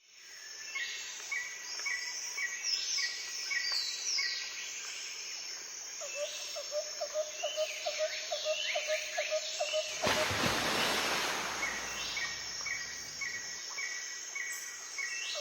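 Several birds singing in woodland: a short chirp repeated about three times a second, and rising whistled notes above it. A fast trill joins about six seconds in, and there is a brief rush of noise around ten seconds.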